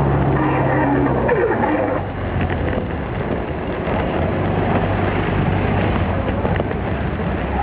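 Small motorbike engine running on the move. Its pitch drops about a second in as it eases off, then it runs steady at lower revs.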